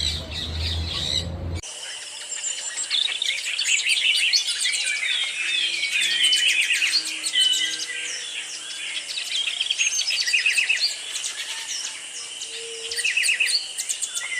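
A flock of small parrots (conures, parakeets and cockatiels) chirping and squawking, with many quick, overlapping high calls. The first second and a half holds only a low rumble that cuts off abruptly.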